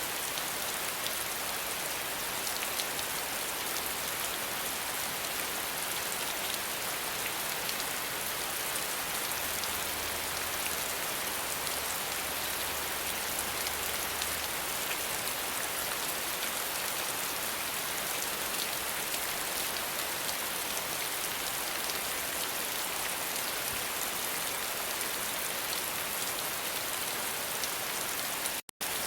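Steady rain falling, a dense patter of raindrops, which cuts out for an instant near the end.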